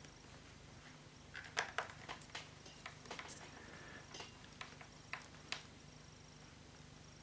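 Irregular light clicks and taps of small hand tools and laptop plastics being handled while screws are driven back into a laptop, about a dozen over a few seconds, with the sharpest pair a second and a half in.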